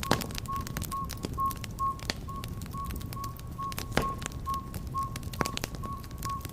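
Wood fire crackling, with sharp pops and a low rushing bed. Over it runs a steady series of short beeps at one pitch, about two or three a second.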